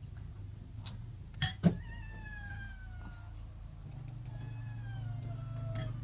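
A cat meowing twice, two long calls that each fall in pitch. Just before the first meow come two sharp clicks.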